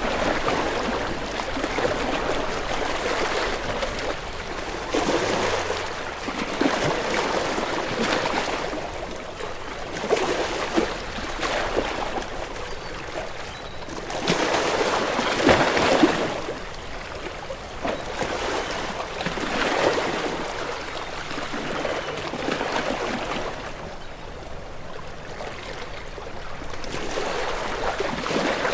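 Sea waves breaking and washing in, a steady rush of water that swells and falls back every few seconds, with the biggest surge about halfway through.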